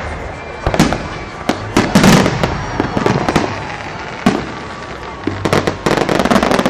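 Fireworks shells bursting in the sky: a run of sharp bangs with crackling, densest about two seconds in and again near the end, over a steady rumble from the display.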